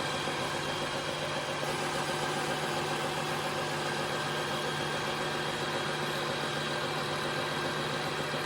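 Tineco iFloor 5 Steam wet-dry floor vacuum running its self-cleaning cycle in its docking station: a steady motor hum with a hiss over it.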